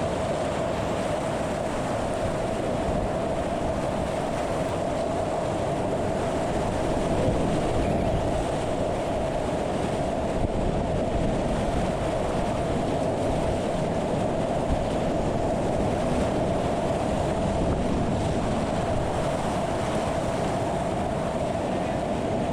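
Steady, even rush of moving river water around a kayak, with a constant midrange hum running through it.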